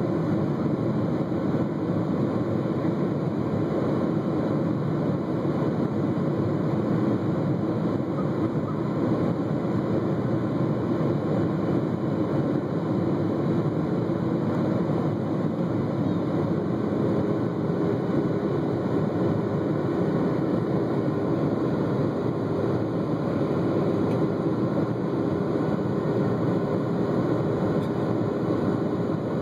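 Steady cabin noise of a Boeing 757 climbing after takeoff: an even jet-engine and airflow rush inside the cabin, with a faint steady tone coming in past the halfway point.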